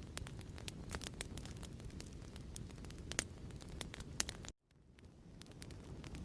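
Crackling fireplace: a steady low rumble of burning with irregular sharp pops and crackles. About four and a half seconds in, the sound cuts out abruptly, then fades back up over the next second or so.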